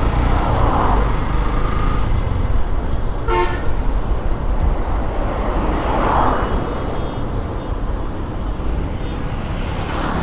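Road traffic in a jam: a steady low rumble of engines, with one short vehicle horn toot about three and a half seconds in.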